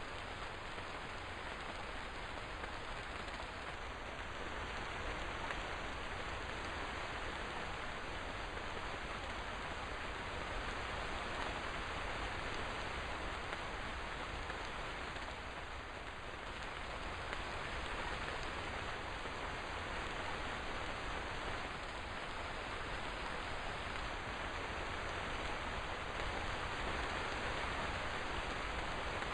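Steady rain falling, an even hiss of many drops with no thunder or distinct single drips.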